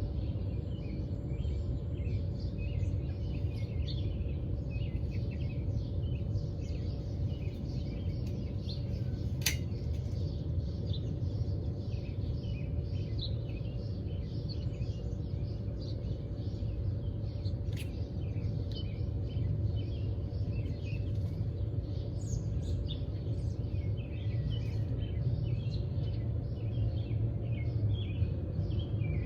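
Several small birds chirping and twittering continuously over a steady low rumble with a faint hum. Two sharp clicks, about 9 and 18 seconds in.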